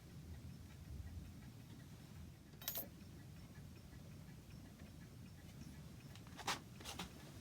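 Faint, steady ticking of a clock under a low hum. Three sharp clicks stand out: one about a third of the way in and two close together near the end, the first of those the loudest.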